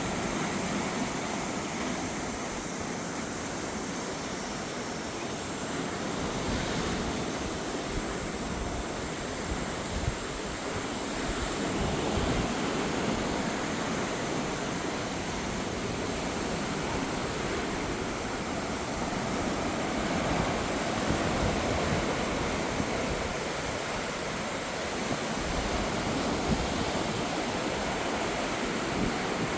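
Sea waves washing in against the shore, a steady rushing wash that swells and eases, with wind.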